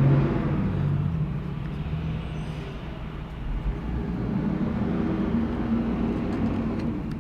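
Low steady background rumble with a hum that swells and fades, and a few faint ticks near the end.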